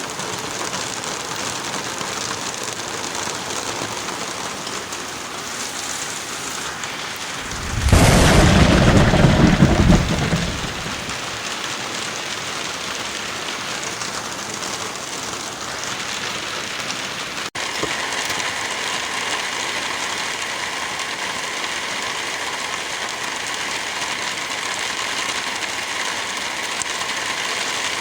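Heavy rain falling steadily, with a loud clap of thunder rumbling for about three seconds a quarter of the way in. A momentary dropout a little past halfway, after which the rain goes on with a slightly different sound.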